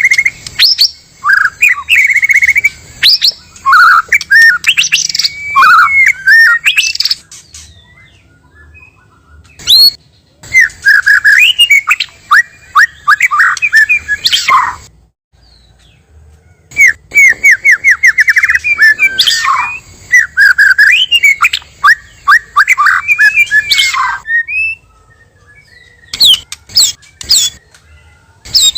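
White-rumped shamas singing loud, varied whistled song in bursts of several seconds, with short pauses between phrases.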